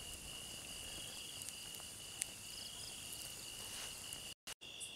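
Insects chirping in a steady high trill, with a few faint clicks. The sound drops out to dead silence for a moment near the end.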